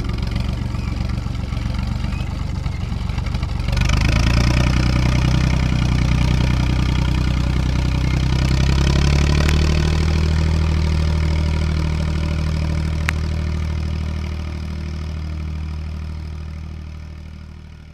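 Tractor diesel engine running steadily, then revved up about four seconds in and held at higher speed, its pitch creeping up around ten seconds before the sound fades out near the end.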